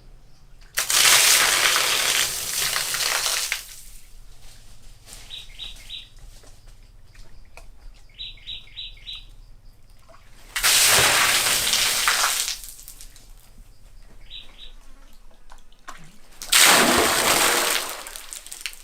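Three loud bursts of splashing water, each lasting two to three seconds. Between them come quick runs of short, high chirps from a small bird.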